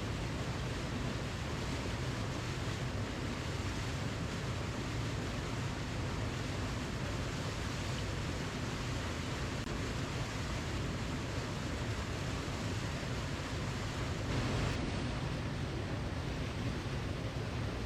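Waterfall: a steady rush of falling water, even and unbroken, with a slight swell near the end.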